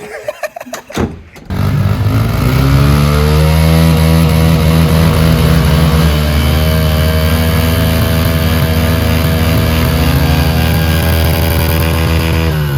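Pit bike engine running hard at high, steady revs, its pitch climbing a little just after it comes in, about a second and a half in. A few brief knocks come before it.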